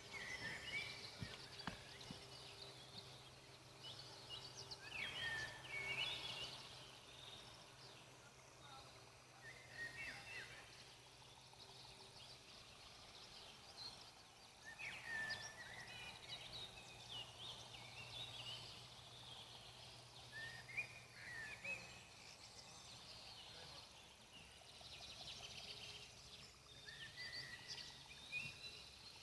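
Songbirds singing in faint bursts of short, quick chirping phrases every few seconds, over a faint steady low hum.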